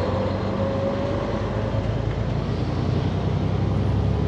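Diesel engine of a day-cab semi truck with a manual 10-speed, pulling in seventh gear and heard from inside the cab. It grows slightly louder as the truck gathers speed.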